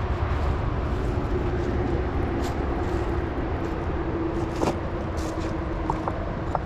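A motor running steadily: a low rumble with a faint, steady hum, and a few light clicks.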